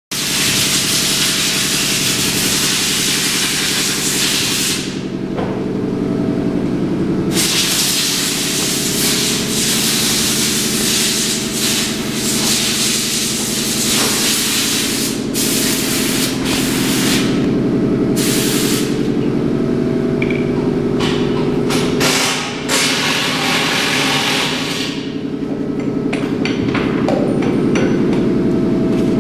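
The engine of a 2020 Vanderhall Venice three-wheeler running steadily at idle, with a hissing noise that comes and goes on top.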